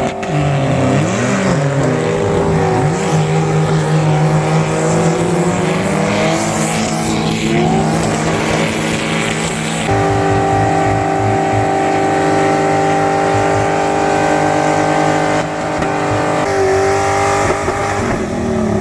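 Drift car engines revving hard, pitch climbing and falling and then held high for several seconds at a time, with a rough haze of tyre and exhaust noise underneath.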